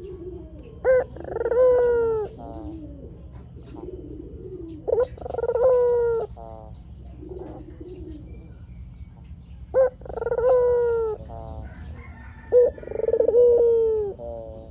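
White ringneck dove (puter) cooing. There are four loud calls, each a short sharp note followed by a longer rolling coo, with softer, lower coos between them and a steady low hum underneath.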